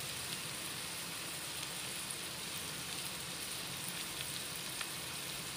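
Chopped bitter gourd (karela) sizzling in hot oil in a pan: a steady hiss of frying.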